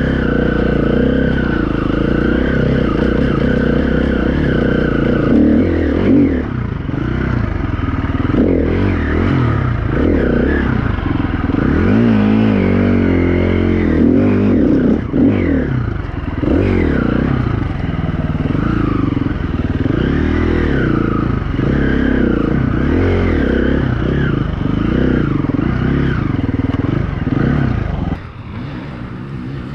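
Dirt bike's single-cylinder four-stroke engine, a 2016 KTM 350 EXC-F, revving up and down under load on a climb, its pitch rising and falling every second or two. The engine drops off about two seconds before the end.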